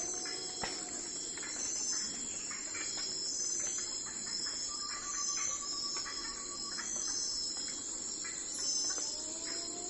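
Crickets chirping in a continuous high, pulsing chorus.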